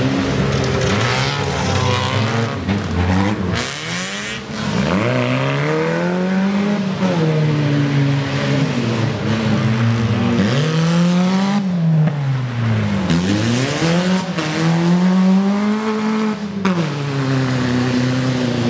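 Wreck-race car engine revving hard, its pitch climbing and dropping again and again, every two to four seconds, as the car accelerates and lifts off around the track.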